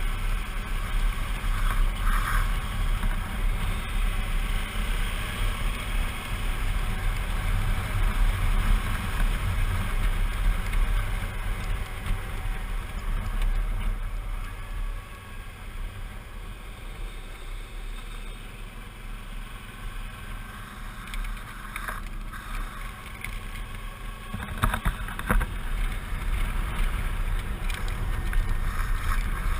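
Suzuki V-Strom 650's V-twin engine running while riding, with wind rushing over the microphone. The engine eases off about halfway through and picks up again near the end.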